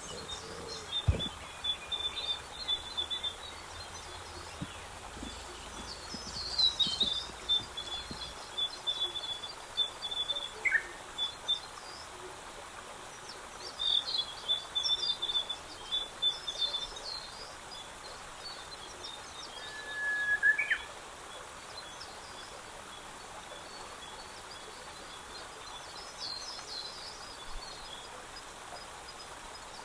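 Small birds singing, with short chirping phrases repeated every few seconds and one brief whistled note partway through, over a steady outdoor background hiss.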